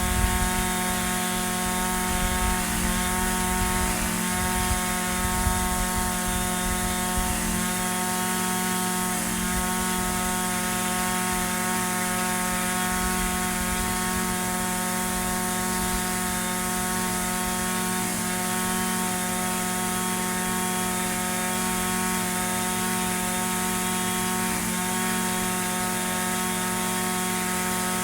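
Echo SRM-2620 string trimmer's small two-stroke engine idling steadily at one speed after a cold start, with some extra low rumble over the first seven seconds or so.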